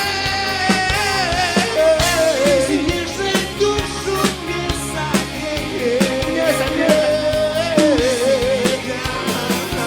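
Live rock band playing an instrumental passage: a lead melody line with bends and vibrato over a steady drum kit beat.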